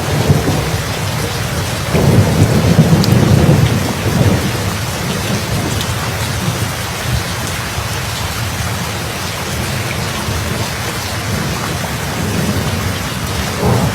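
Steady heavy rain with rumbling thunder, the loudest roll about two to four seconds in.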